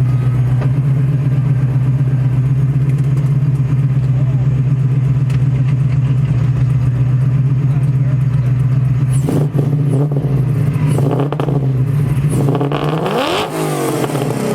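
Classic Ford Mustang fastback with a tuned exhaust idling with a steady low rumble, then blipped several times, about nine seconds in, again about a second and a half later, and in one big rev near the end that climbs and drops back to idle.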